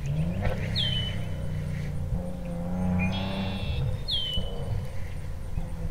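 A steady low rumble, with a bird's short whistle sliding down in pitch twice, about three and a half seconds apart.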